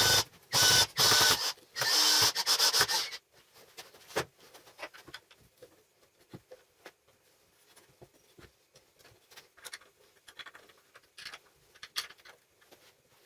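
A power tool runs in three short bursts during the first three seconds, with a faint squeal in them, followed by scattered light clicks and taps of workshop handling.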